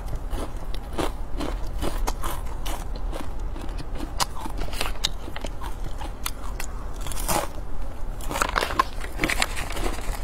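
Close-miked crunching and chewing of crispy fried grasshoppers, a dense run of sharp crackles. Near the end a plastic snack packet rustles as seasoning is shaken out of it.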